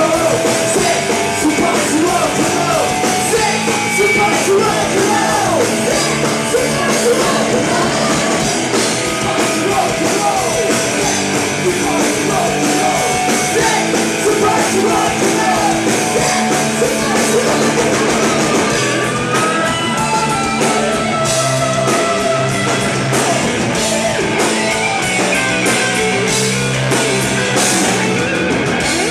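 Rock band playing live, with electric guitar lines over bass and drums.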